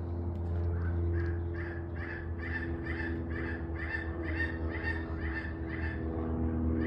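A bird calling in a rapid series of short, harsh notes, about three a second, stopping shortly before the end, over a steady low hum.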